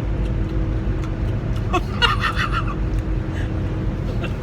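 Steady engine and road rumble inside a semi-truck cab while driving, with a brief faint voice-like sound about two seconds in.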